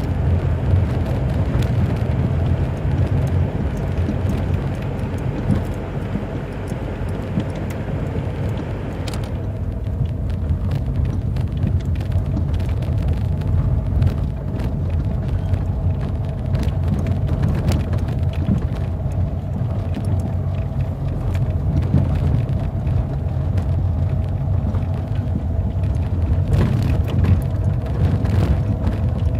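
Steady low rumble of a motor vehicle on the move, with scattered clicks and knocks; a hiss above it drops away about nine seconds in.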